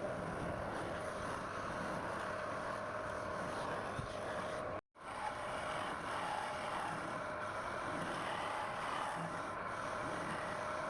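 Wood lathe running steadily, with a tool scraping on the spinning wood. It cuts out for an instant about five seconds in, then goes on as before.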